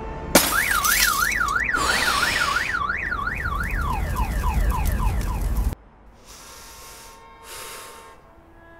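A sudden bang, then a car alarm wailing, its pitch sweeping up and down about four times a second. The sweeps sink lower and slow before the alarm cuts off abruptly about two-thirds of the way through. Fainter rushing noises follow.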